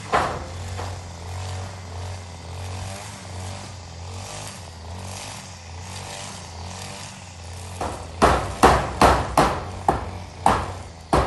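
Hammer driving nails into zinc roofing sheets: one knock at the start, then a run of sharp, even strikes about two a second from about eight seconds in. A steady low engine hum sits under the first part.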